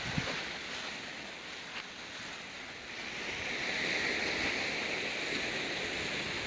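Ocean surf washing against a rocky shore, a wave's wash swelling up about halfway through, with some wind buffeting the microphone.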